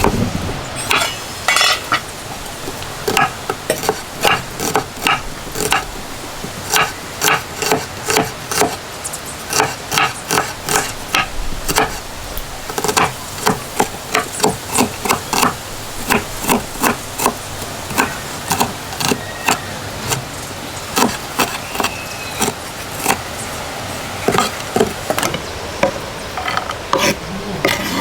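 A metal ladle or spoon scraping and clinking against a cooking pot as food is stirred, over a steady sizzling hiss of frying.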